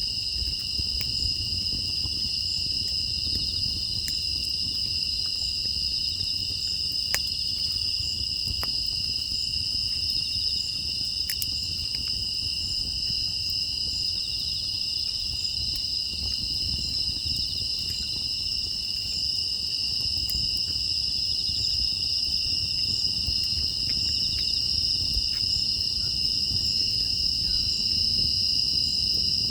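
A steady, high chorus of crickets and other field insects, with a wood fire crackling faintly now and then.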